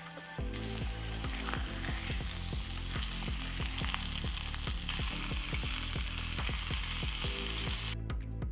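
Chicken breasts searing in hot oil in a frying pan, a steady sizzle that cuts off abruptly near the end. Background music with a steady beat runs underneath.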